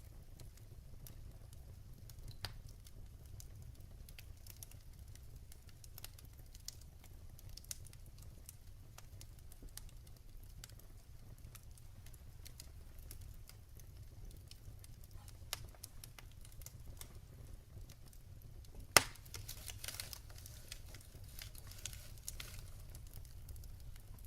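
Wood logs burning in a fireplace, crackling: scattered soft pops and ticks over a low steady rumble. About three-quarters of the way through comes one sharp, much louder pop, followed by a few seconds of denser, hissing crackle.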